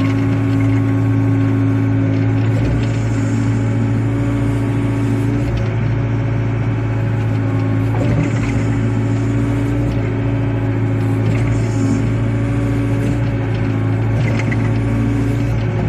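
Wheel excavator's diesel engine running steadily, with a low, even hum and a higher tone that drops out and comes back a few times as the machine works.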